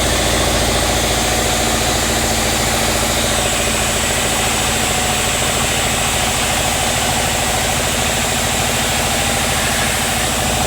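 Sawmill machinery's engine running steadily, a loud even drone with rapid low pulsing.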